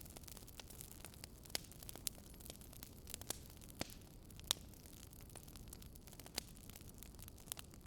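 Wood fire crackling: irregular sharp pops, about one a second, over a low steady hiss.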